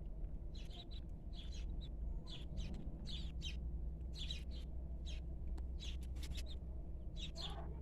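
A flock of young chickens peeping, many short high chirps coming several times a second while they feed, over a steady low hum.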